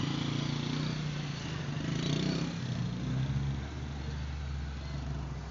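A motor vehicle engine running steadily, its pitch dropping slightly about three and a half seconds in.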